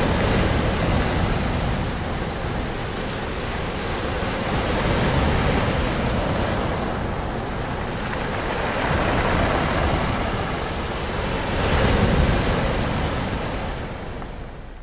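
Ocean surf: waves washing in and swelling every few seconds in a continuous rush, then fading down near the end.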